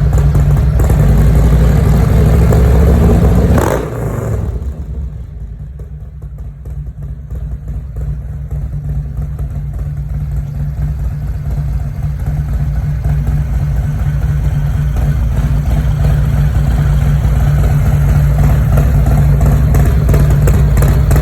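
A 2019 Harley-Davidson Milwaukee-Eight 114 V-twin with a Zippers Red Shift cam, idling warm through a D&D exhaust with a deep, loping rumble. About four seconds in there is a click and the sound drops off sharply, then it builds back gradually to full loudness.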